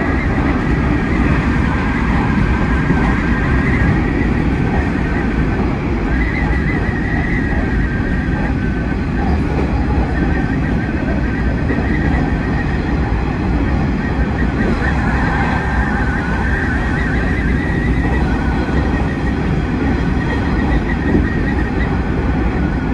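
Hanshin 9300 series electric train heard from inside the driver's cab while running at speed: a steady rumble of wheels on rail, with a high, wavering whine that comes and goes on top.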